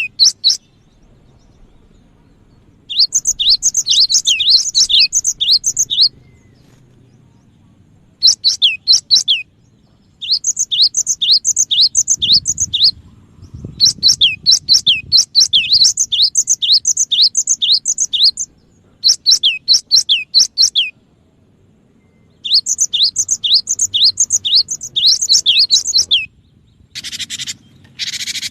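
Cinereous tit (gelatik batu) singing: phrases of rapid, sharp, downward-sweeping whistled notes, each phrase lasting one to three seconds with short pauses between. Two brief hissy bursts come near the end.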